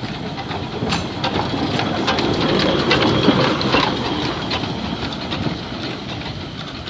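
Heritage train running slowly along the track, heard from on board: a steady rumble with many irregular clicks and knocks from the wheels and carriages, swelling in the middle and easing off toward the end.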